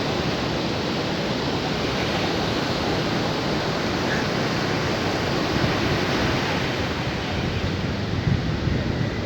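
Sea surf washing in a steady rush, with wind on the microphone.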